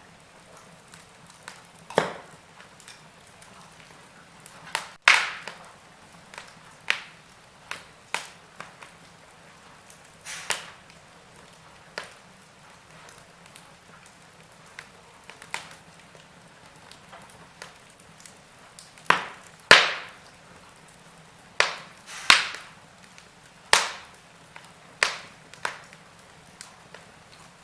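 Wood fire in a fireplace crackling: irregular sharp pops and snaps of burning wood over a faint steady hiss, with the loudest pops bunched about two-thirds of the way through.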